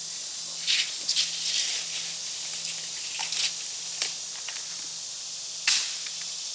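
Dry leaves and twigs rustling and crackling in several short, sharp bursts, the loudest near the end, over a steady high hiss.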